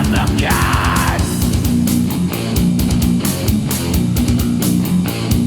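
Death metal band playing: a sung vocal line ends about a second in, then distorted electric guitar riffing over drums carries on without vocals.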